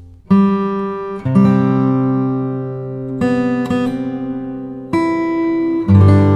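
Background music: acoustic guitar strumming chords, a new chord struck every second or two and left to ring.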